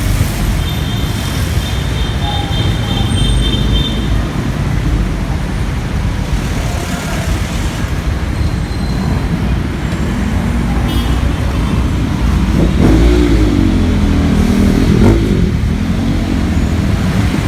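Busy city street traffic: a steady rumble of engines and tyres. A brief high tone comes early on, and a pitch that wavers up and down comes near the end, likely a passing vehicle's engine.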